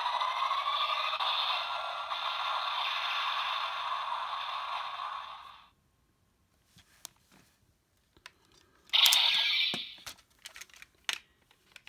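Electronic sound effect from a Bandai DX Kamen Rider toy's speaker: a steady, hissing blast that cuts off suddenly about five and a half seconds in. After it come light clicks of plastic toy parts being handled and a short loud scraping burst a little after nine seconds.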